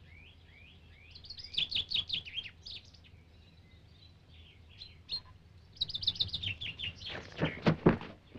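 Birds chirping and singing in quick trilled runs, with a few dull thuds near the end.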